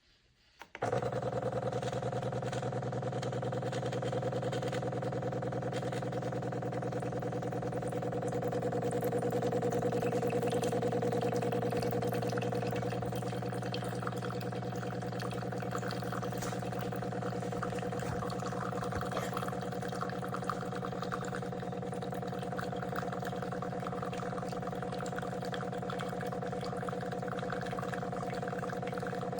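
De'Longhi La Specialista Opera espresso machine running: a steady mechanical hum that starts suddenly about a second in and holds, swelling a little for a few seconds before settling.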